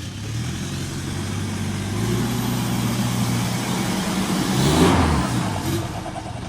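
Off-road vehicle engine pulling under load, its note swelling near the start. About five seconds in, a rush of noise peaks and then fades.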